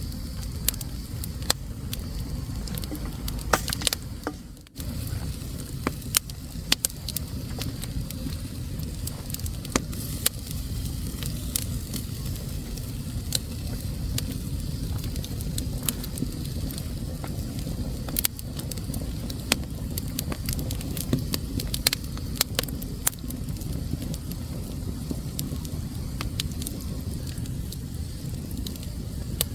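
Wood fire burning in a fireplace, crackling and popping with frequent sharp snaps over a steady low rumble. The sound dips briefly about four and a half seconds in.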